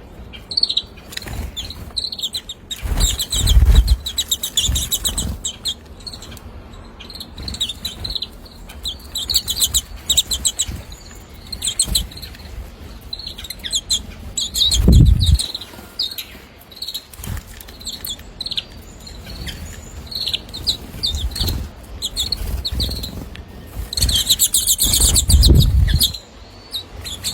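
Small birds chirping in quick, high-pitched runs of repeated notes throughout. There are three louder low rumbling bursts, a few seconds in, about halfway and near the end.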